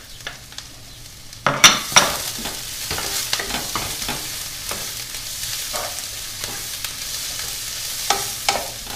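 Onions and freshly added garlic frying in hot sunflower oil in a non-stick sauté pan, stirred with a wooden spatula that scrapes and knocks against the pan. The sizzle jumps up sharply about a second and a half in and carries on steadily.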